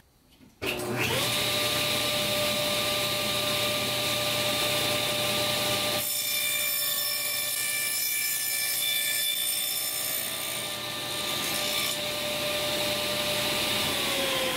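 Table saw starting up and running at speed while a tenoning jig feeds the end of a cedar board across the blade, with the blade cutting wood through the middle of the run to leave a dado on the end. The motor is switched off near the end and starts to wind down.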